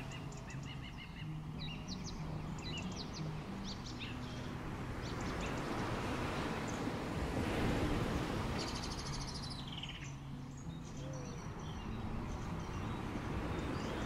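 Birds chirping in quick short calls, with one longer call sliding down in pitch about nine seconds in, over a steady rush of background noise.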